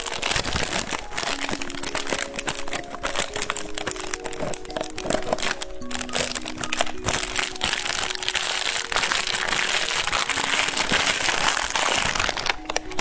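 Crinkling and crackling of a White Rabbit milk candy's wrapper being handled, a dense run of small crackles throughout, over background music of held notes.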